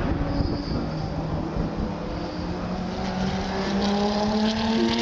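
Historic racing car engines running hard, with several engine notes climbing slowly and steadily in pitch as the cars accelerate.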